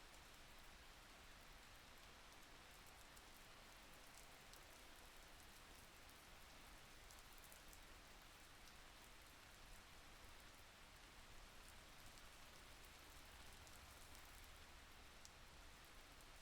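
Faint, steady rain, with scattered soft drop ticks.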